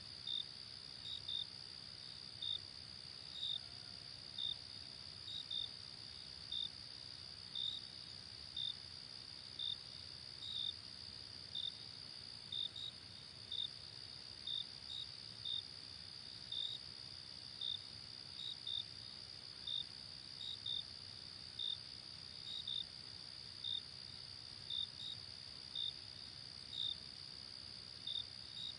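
Night insects like crickets: a steady high trill, with separate short chirps a little over once a second, some in pairs.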